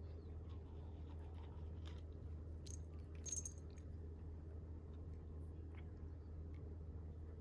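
Faint scattered crunching clicks over a steady low hum, with a short cluster of sharper clicks about three seconds in.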